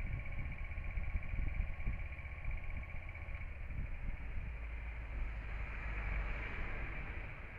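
Honda Varadero XL125V's 125 cc V-twin running in gear with the rear wheel spinning and the chain turning, a low rumble under a steady thin whine. The whine fades about three seconds in, and a hiss swells and dies away near the end.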